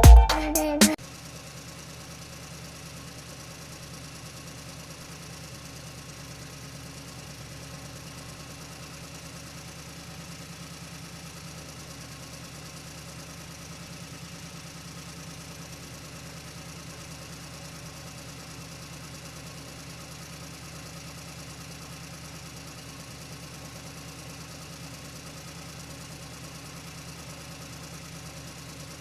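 Music cuts off about a second in. It is followed by a steady, unchanging engine-like idling hum.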